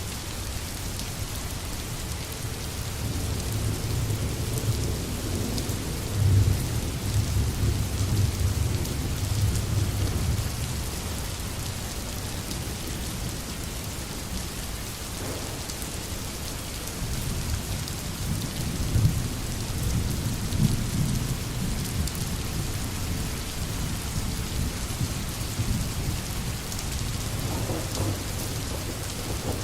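Steady heavy rain hissing, with low rolling thunder rumbling beneath it twice, for several seconds each, the first a few seconds in and the second past the middle.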